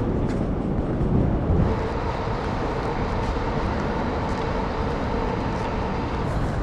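Steady rumble of city street traffic. A faint steady hum joins it about two seconds in.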